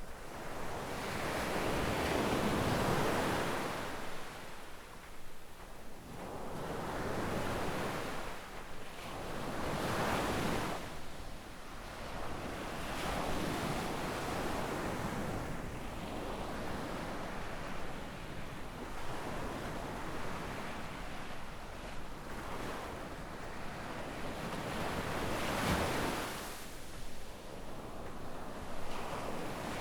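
Gentle ocean waves breaking and washing up a sandy shore, swelling and fading in repeated surges. The biggest surges come a couple of seconds in and again near the end.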